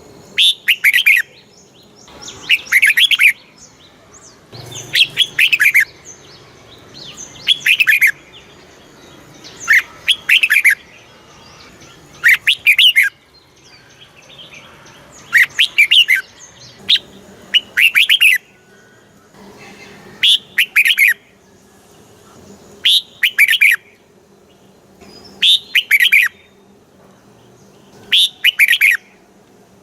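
Red-whiskered bulbul singing: short, loud phrases of quick whistled notes, repeated about every two to three seconds.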